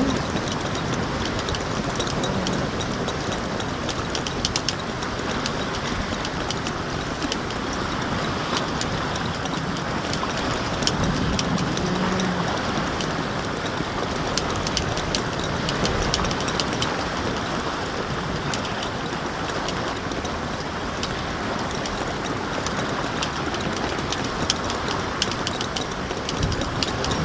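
Strong wind blowing across the microphone and the waterside: a steady rushing noise with fine crackling throughout.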